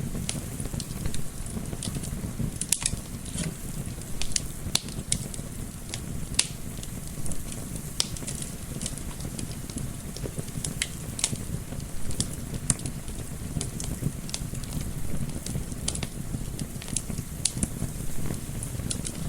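Wood fire crackling, with irregular sharp pops and snaps over a steady low rumble of gentle wind.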